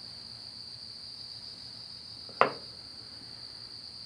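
Steady high-pitched insect drone, unchanging throughout, with a single sharp knock about two and a half seconds in.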